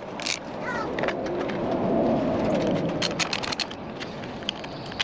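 Hand ratchet wrench clicking in short bursts while working on a Briggs & Stratton engine, with a quick run of clicks about three seconds in.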